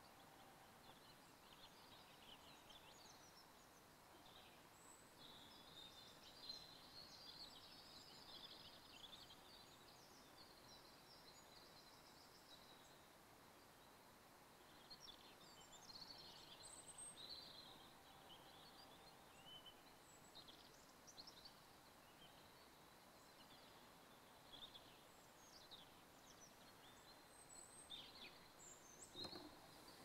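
Faint songbirds singing, scattered chirps and short trills over a quiet background hiss, with a single soft knock near the end.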